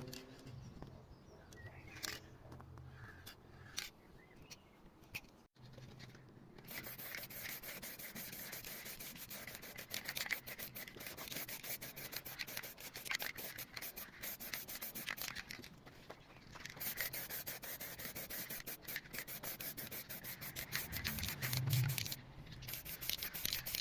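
Hand-sanding of car bodywork: abrasive paper rubbed back and forth over the panel in quick strokes, broken by a few short pauses. The first few seconds are quieter, with a few scattered clicks.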